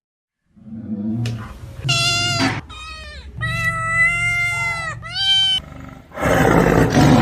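Animal calls: four high-pitched, drawn-out cries over a low rumble, the third the longest, then a loud, rough roar about six seconds in.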